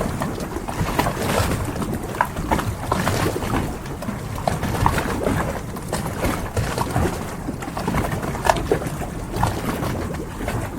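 Harbour ambience: water sloshing around moored boats, with irregular small knocks and occasional short bird calls.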